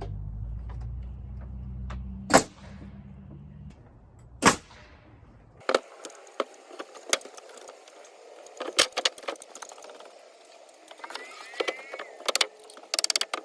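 Deck boards being fastened: two loud sharp bangs about two seconds apart over a low steady hum, then a run of lighter knocks, taps and metallic clinks as boards and fasteners are handled.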